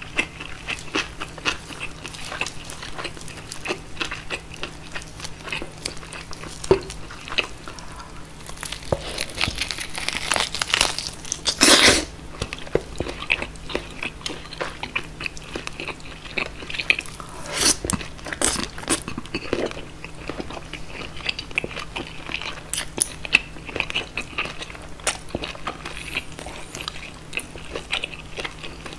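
Close-miked eating of a roast pork knuckle (schweinshaxe): biting, tearing and chewing the meat and its crisp skin, with a steady run of crunchy, wet clicks. The loudest crunching comes about ten to twelve seconds in, with more around eighteen seconds.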